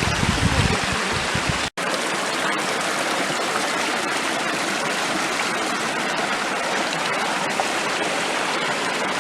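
Rushing water of a creek tumbling down a waterfall gully, a steady even rush. It cuts out for an instant about two seconds in.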